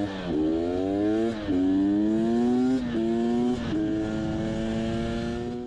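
Motorcycle engine accelerating hard up through the gears. The pitch climbs and then drops at each of four quick upshifts, and the engine holds a steady note near the end.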